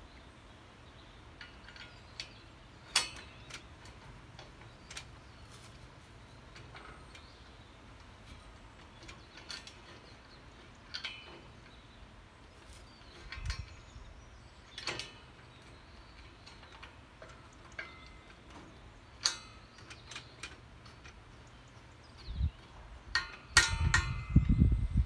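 Scattered sharp clicks and light knocks, like metal parts being handled, over a quiet background, ending in a cluster of louder knocks and low thumps.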